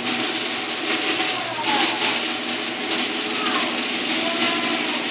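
Garage door opener running: a steady motor hum with a rattling mechanical drive noise.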